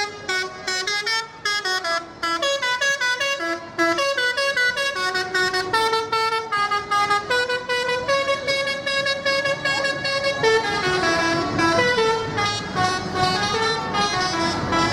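A musical vehicle horn on a decorated tractor playing a fast tune, with short notes stepping up and down without a break.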